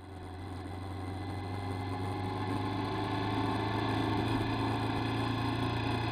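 Motorcycle engine running steadily while riding, heard close up from a camera mounted on the bike, with a steady low hum and road and wind noise; the sound fades in over the first couple of seconds.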